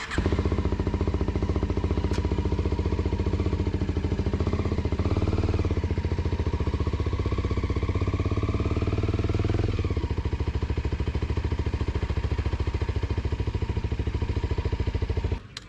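Kawasaki Ninja sport bike engine running steadily with a rapid, even exhaust pulse. The note rises a little partway through and settles lower about ten seconds in, then cuts off suddenly near the end.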